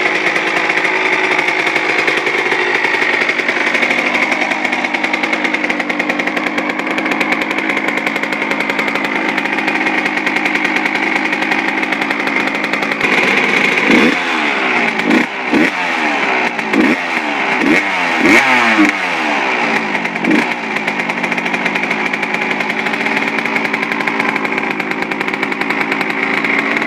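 Suzuki RM125's freshly rebuilt two-stroke single-cylinder engine running steadily. About halfway through it is blipped through a quick series of sharp revs, then settles back to idle.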